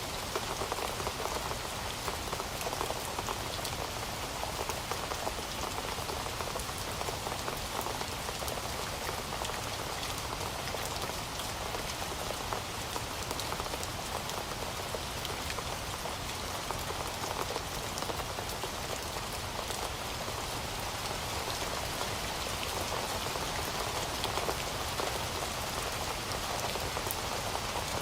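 Heavy rain falling steadily, a dense even hiss with many fine drop ticks on a hard surface.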